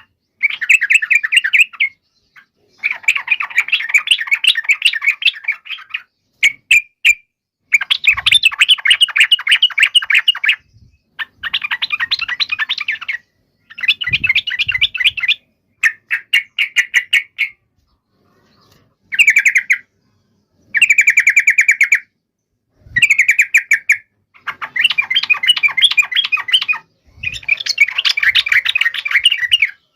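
Yellow-vented bulbul (trucukan) chattering in loud, bubbly bursts of one to three seconds each, with short silent breaks between them: the agitated fighting call used as a lure to make other bulbuls answer.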